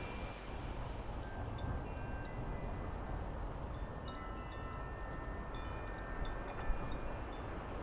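Wind chimes ringing: scattered clear tones at several pitches that each hang for a moment, over a steady low rumble of outdoor background noise, with a brief low thump near the end.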